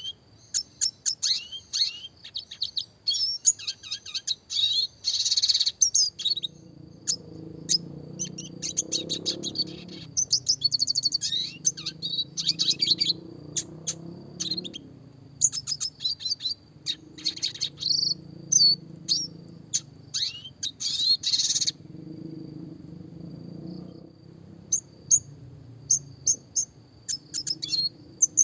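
Red siskin (Spinus cucullatus) singing: a fast, twittering song of short chirps, trills and rapid rolls, in phrases separated by brief pauses, over a steady thin high tone.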